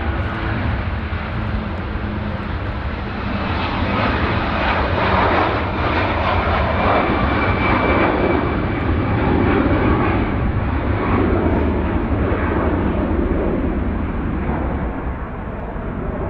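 Jet airliner's engines roaring as it passes along the runway: a dense rumble that builds over the first few seconds, stays loudest through the middle and slowly fades, with a faint high whine over it midway.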